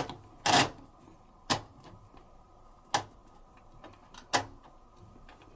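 Old washing machine's program selector dial being turned, snapping into its notches with sharp clicks: five clicks about a second to a second and a half apart, the second one the loudest and a little longer.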